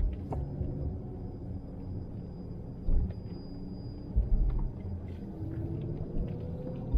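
A car running and rumbling over the road while driving slowly, heard from inside the cabin, with a few low thumps and the engine note rising slightly a little after halfway.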